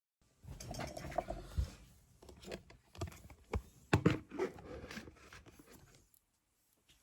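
Handling noise: irregular rustling and scraping with a few sharp knocks, the loudest about four seconds in, dying away about six seconds in.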